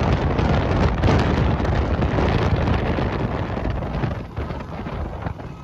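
Wind buffeting the microphone in a loud, steady rush that eases off in the last second or so.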